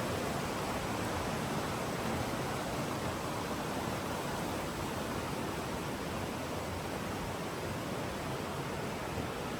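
Steady, even rush of flowing water from a mountain stream running through a rocky canyon.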